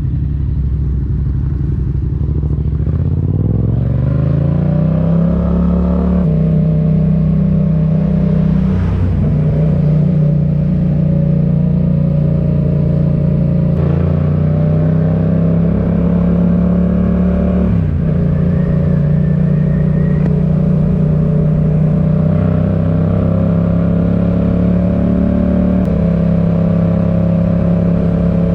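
Yamaha MT-07's parallel-twin engine with a RoadsItalia aftermarket exhaust, pulling up through the revs over the first few seconds, then running at fairly steady revs with a few brief drops and shifts in pitch.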